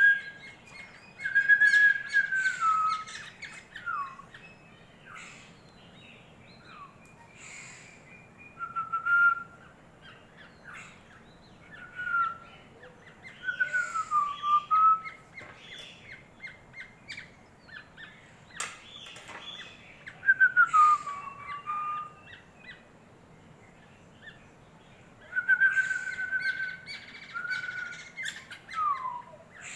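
Young orioles calling while being hand-fed: bursts of short whistled notes, many sliding down in pitch, every few seconds, mixed with short sharp clicks.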